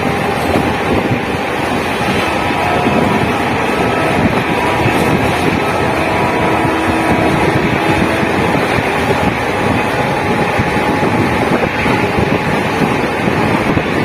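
Train running: a steady rushing rumble, with wind buffeting the microphone.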